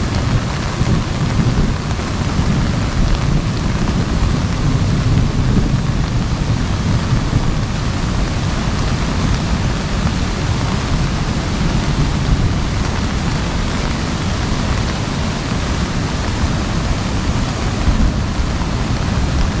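Heavy rain drumming steadily on an umbrella overhead, a dense, unbroken patter with a deep rumble underneath.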